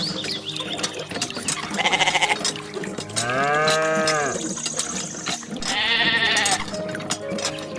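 Farm animals bleating: three separate calls, the middle one lower and longer with its pitch rising and then falling, over faint steady ticking.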